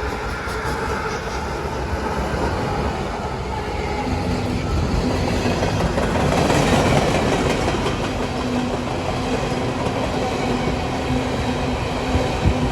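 CSX freight train, an empty coal train hauled by diesel locomotives, rolling past with a continuous rumble of engines and wheels on rail; a steady low hum joins in about four seconds in.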